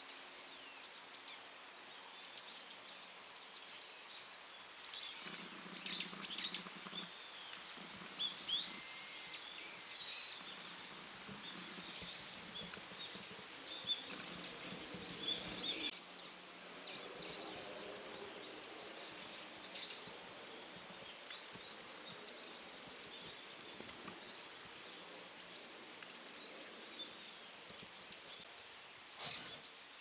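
Small birds chirping, with many short high calls that come thickest in the middle and thin out toward the end, over steady outdoor background noise.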